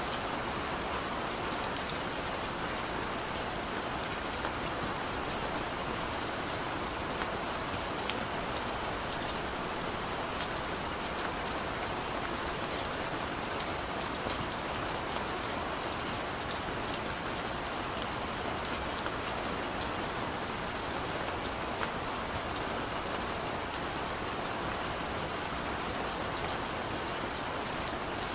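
Steady rain falling on a surface, an even hiss with a fine patter of individual drops.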